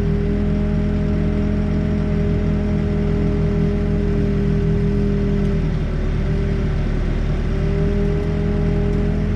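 Backhoe's diesel engine running steadily under work, with a steady whine whose pitch sags slightly about six seconds in and climbs back near the end.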